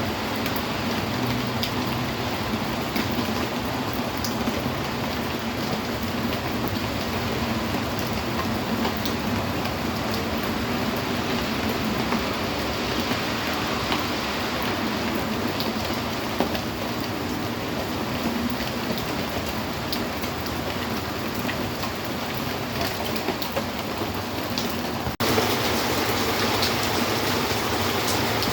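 Steady rain falling, an even hiss with scattered individual drop ticks. About 25 seconds in the sound changes abruptly, becoming slightly louder and brighter.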